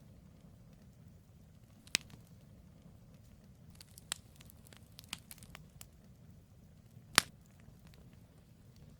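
Firewood campfire crackling, with a sharp pop about two seconds in, a cluster of smaller crackles in the middle and the loudest pop near the end, over a low steady rumble.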